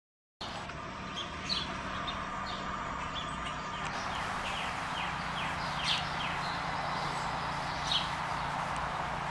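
Birds chirping in short, high calls and a few quick falling chirps scattered through, over a steady outdoor background hiss and low hum. The sound starts abruptly about half a second in.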